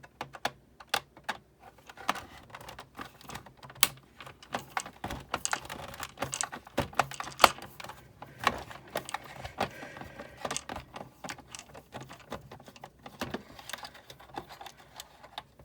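Irregular clicking and tapping of a Sizzix Big Shot die-cutting machine's plastic and metal parts being handled and worked loose during disassembly, several small clicks a second, with one sharper click about halfway through.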